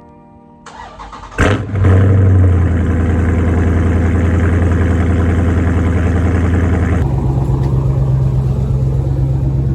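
Dodge V8 engine starting: a brief crank, a loud flare as it catches, then a fast idle that settles into a steady idle with a deeper, even note about seven seconds in.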